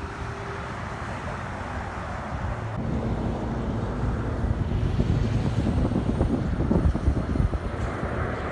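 Arriving jet airliner on approach, its engine rumble growing louder, with a thin high-pitched whine coming in about halfway through.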